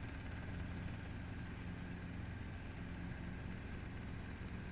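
Helicopter engine and rotor running with a steady drone and a broad hiss.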